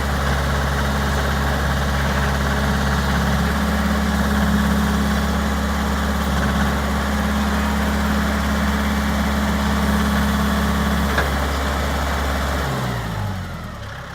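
Tractor engine idling steadily, then shut off near the end, its pitch falling as it runs down. There is a single click shortly before the shutdown.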